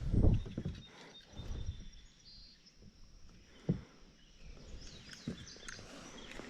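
A few dull thumps and one sharp knock a little past the middle, over a faint steady outdoor background.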